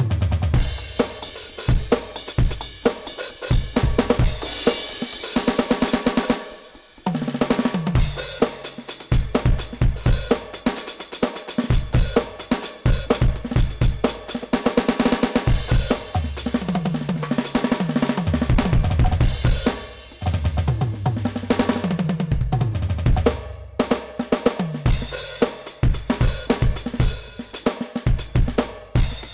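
NUX DM-8 electronic drum kit played: a groove of kick, snare, hi-hat and cymbals, broken by several fills that run down the toms from high to low. There is a brief stop about seven seconds in.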